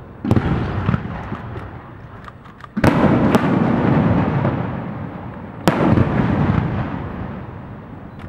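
Aerial fireworks shells bursting overhead: several sharp booms, the loudest about three seconds in and another near six seconds, each trailing off in a long rumbling echo. A few small crackles sound within the first two seconds.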